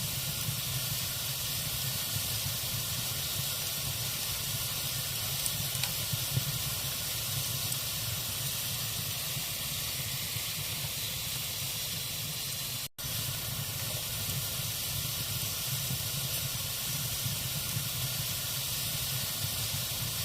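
Log fire burning with a steady hiss and a few faint crackles. The sound cuts out for an instant about two-thirds of the way through.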